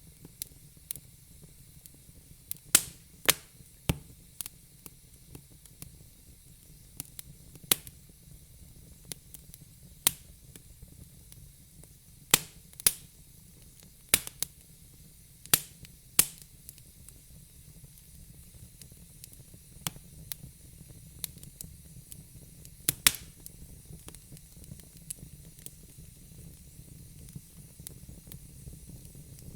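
Logs burning in a fire pit, crackling: sharp pops and snaps over a steady hiss. The pops come often in the first half and more sparsely later.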